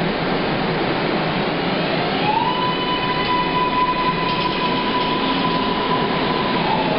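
Rapid-transit train running, heard from inside the car: a steady rumble and hiss of the ride. About two seconds in, a whine rises in pitch, holds steady, and falls away near the end.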